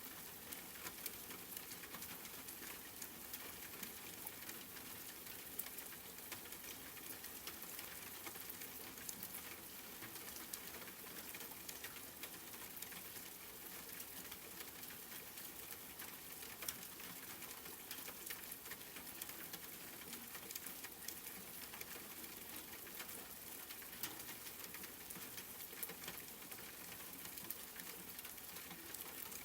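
Steady rain: a dense, even patter of small drops, with many light individual drop ticks scattered through it.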